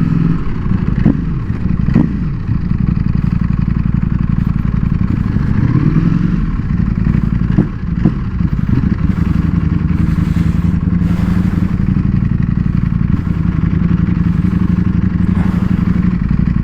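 Ducati Panigale V4S's V4 engine running as the bike rides along, heard from the rider's helmet camera. The engine note dips and swoops back up a few times, about a second in, near two seconds and around eight seconds, as the throttle is rolled off and on.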